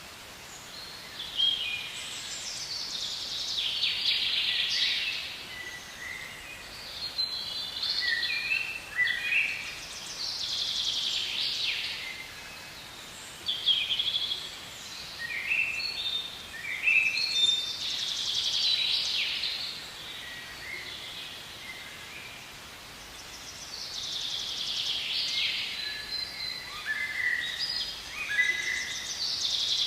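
Songbirds singing: phrases of high chirps and trilled notes come every few seconds, some overlapping.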